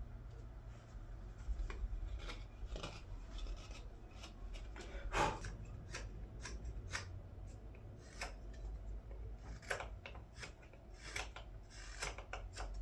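Knife cutting and scraping green wood in the bowl of a ladle, a run of short, irregular shaving strokes.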